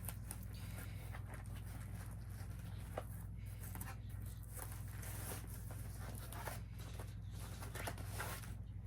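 Rustling and handling noises with scattered small clicks, over a steady low hum.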